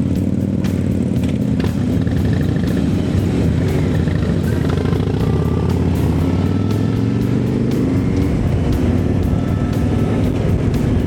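A Honda CB1100's air-cooled inline-four engine running steadily at road speed, its note rising and falling a little with the throttle.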